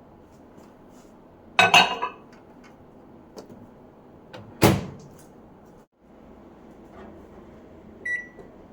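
Samsung microwave oven being handled: a brief clatter of clicks, then a single sharp knock of the door shutting a little under five seconds in, and a short keypad beep near the end.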